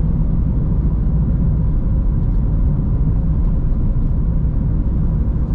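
A car driving along a road: a steady low rumble of tyres and engine, with a faint steady whine above it.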